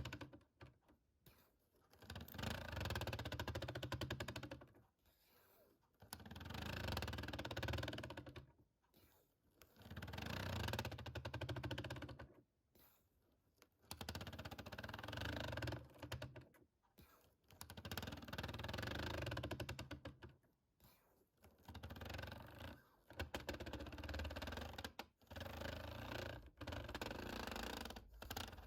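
Fingertips tapping rapidly on plastic keys in runs of two to three seconds, with short pauses between runs.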